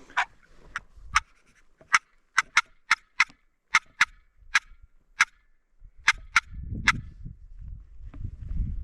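A series of about fifteen short, sharp turkey yelp notes in irregular bunches, typical of a hunter calling to a gobbler. Footsteps follow near the end.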